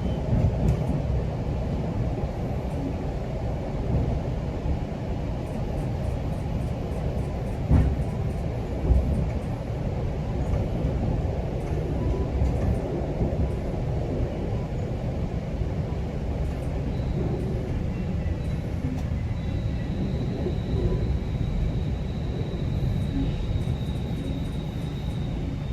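GO Transit commuter train running on the rails with a steady low rumble. Two heavier thumps come about a second apart a third of the way through, and a faint high whine joins in the second half.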